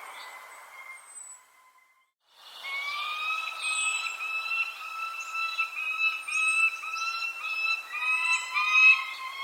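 Birds chirping, with short high falling chirps over a long, steady, slightly wavering whistle-like tone. The sound cuts out almost completely for about a second, roughly two seconds in, then comes back louder.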